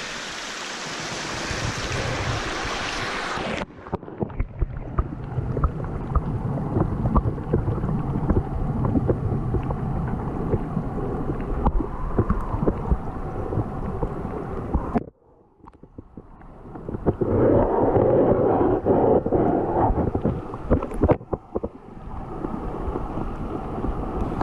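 Creek water rushing under a footbridge, an even hiss, which cuts off abruptly a few seconds in. Low rumbling and crackling of wind buffeting the microphone follow, with a brief drop to near silence about two-thirds of the way through.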